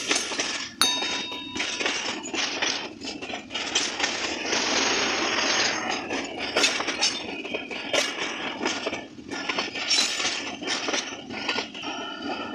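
Passenger train coaches rolling past close by: a steady rumble of wheels on rail with many sharp metallic clicks and clanks as the wheels cross rail joints.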